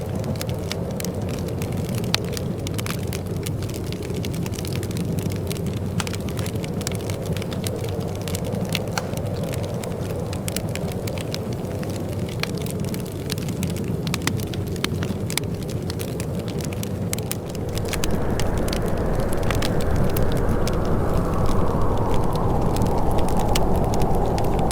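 Wood fire crackling in a fireplace: frequent sharp pops and snaps over a steady low rushing noise. About 18 s in, the low rushing noise grows louder while the crackling goes on.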